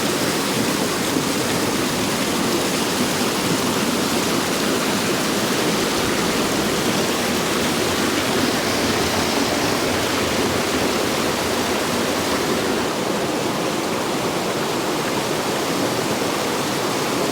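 A creek's running water rushing in a steady, dense hiss.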